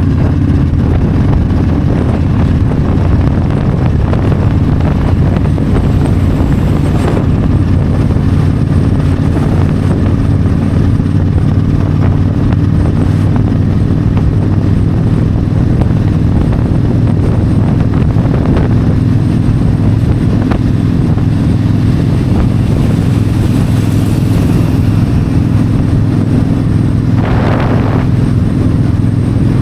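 Yamaha V-Star 1300's liquid-cooled V-twin engine running steadily at highway cruising speed, with wind noise over the bike. Near the end a brief hiss rises and fades.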